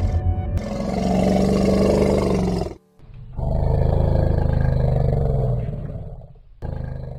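Deep, drawn-out roars: two long ones of about three seconds each with a short break between them, and a brief third near the end.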